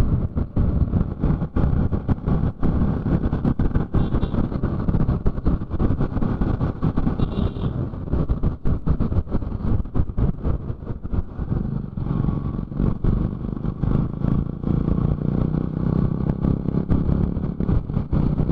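Motorcycle running on the move along a road, a constant low rumble with rapid, irregular crackle over it.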